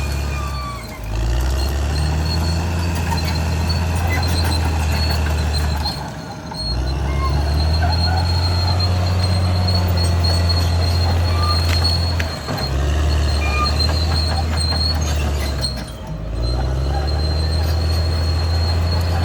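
Caterpillar D6R XL crawler bulldozer working, its diesel engine droning under load with a thin metallic squeal from the steel tracks and undercarriage. The engine note dips briefly about four times.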